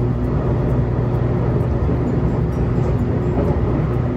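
Running noise heard inside a JR Kyushu 813 series electric train moving at speed: a steady rumble of wheels on rail with a constant low hum.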